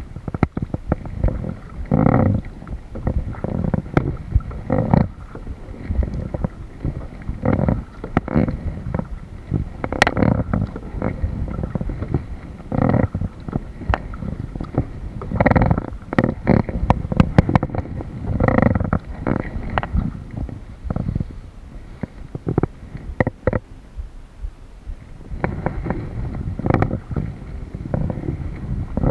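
Water sloshing and splashing around a kayak, with irregular low rumbles and knocks close to the microphone and repeated surges every second or two that fit paddle strokes.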